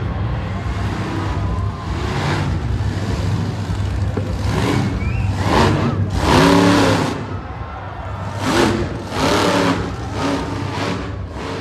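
Monster truck engine running with a steady low drone, surging louder a few times in the middle as it revs.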